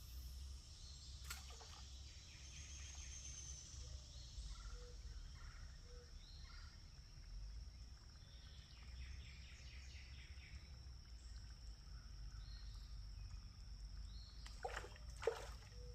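Faint creekside ambience: birds calling now and then over a steady high insect drone and a low rumble. A few sharp clicks come about a second in and again near the end.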